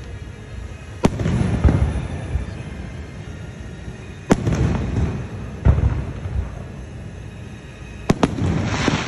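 Aerial firework shells bursting overhead. There are sharp bangs about a second in and just after four seconds, then two bangs close together near the end, each followed by a rolling rumble and crackle.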